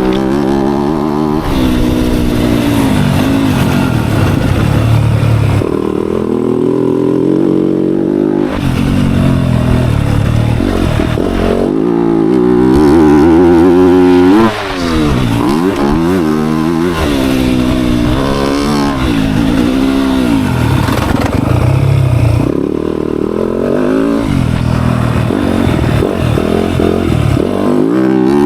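Dirt bike engine being ridden hard, its pitch rising and falling over and over as the throttle is worked and gears change, with a short break about halfway through.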